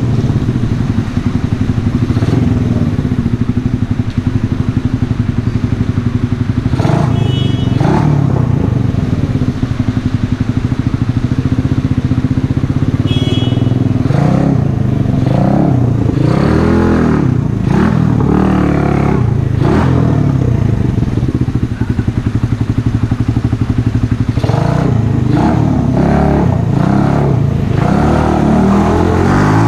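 Mash Café Racer 125cc single-cylinder four-stroke engine through a Megaton aftermarket exhaust, running at a steady idle for about the first half. It is then blipped up and down in several revs, settles briefly, and is revved again near the end.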